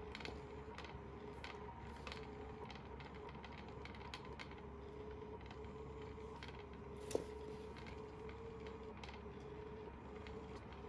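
Small electric motor of an automatic cat toy running with a steady whine, with scattered light clicks and ticks and one sharp click about seven seconds in.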